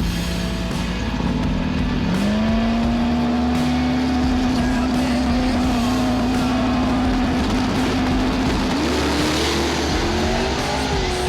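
Street race cars' engines running, one held at steady revs for several seconds, then revving up and climbing in pitch about nine seconds in.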